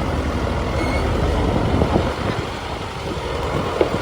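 Workshop noise: a steady low rumble with a few short knocks scattered through it, the rumble easing a little after about two seconds.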